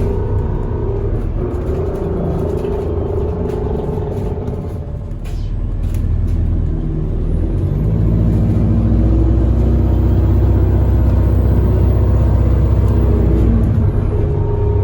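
Bus engine and road rumble heard from inside the passenger cabin, easing off briefly about five seconds in, then building again and staying strong as the bus pulls on.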